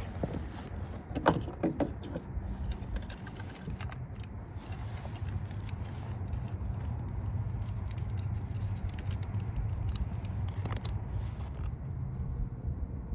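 Scattered small clicks, rattles and rustles of a smallmouth bass being handled and hung on a fish scale to be weighed, over a steady low rumble.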